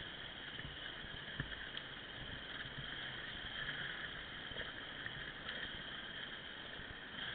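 Dirt bike engines running steadily at low speed, with a couple of faint knocks about one and a half seconds in.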